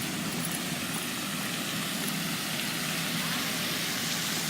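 Steady running noise of a vehicle in motion, with wind and road noise.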